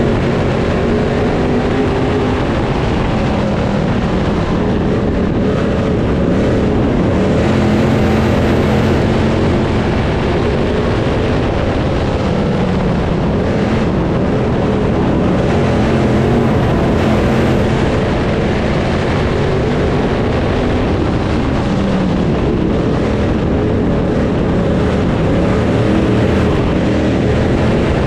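Dirt late model race cars' V8 engines running at racing speed, a continuous loud engine sound whose pitch rises and falls as the cars accelerate and back off around the track.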